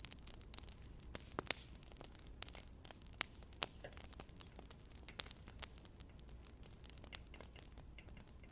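Wood fire crackling: sparse, irregular sharp pops over a faint steady hiss.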